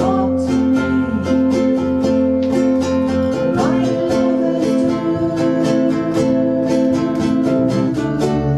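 Ukulele group playing a song live, several ukuleles strumming chords in a steady rhythm over a held bass line.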